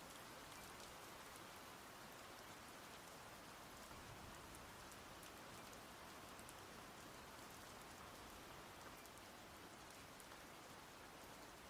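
Faint, steady light rain, an even hiss with small scattered drips.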